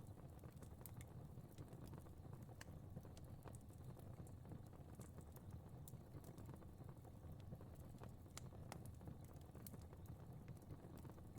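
Fire crackling quietly: irregular sharp pops and snaps over a low, steady rumble of flames.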